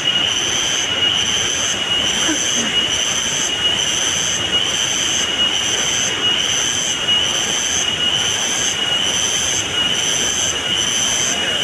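A shrill, steady insect chorus, typical of cicadas, with a higher layer that pulses on and off a little under twice a second, over the even rush of flowing river water.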